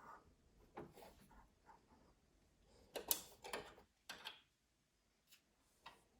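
Faint clicks and knocks of small parts and tools being handled, with a louder cluster of knocks about three seconds in.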